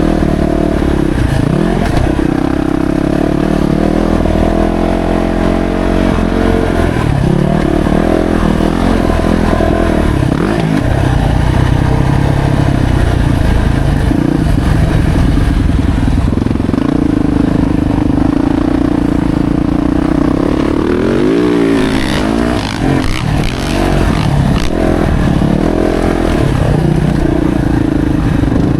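A 2025 Yamaha YZ450F's 450 cc single-cylinder four-stroke engine being ridden hard, the revs rising and falling again and again as the throttle is opened and shut. There is a brief drop in level a little past two-thirds of the way through.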